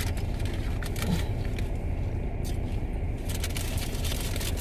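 Crunching and crinkling of people biting into hard-shell tacos and handling the paper wrappers, as a run of short sharp clicks over a steady low hum in a car's cabin. There is a short hum of a voice about a second in.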